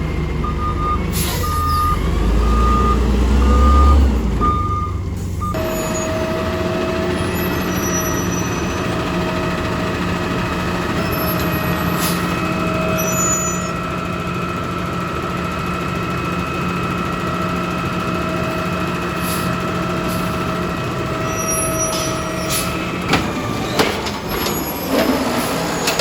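Garbage truck backing up, its reversing alarm beeping about once a second over heavy diesel rumble. About five seconds in, the sound cuts to another garbage truck's engine running steadily with a held whine. A few sharp knocks come near the end.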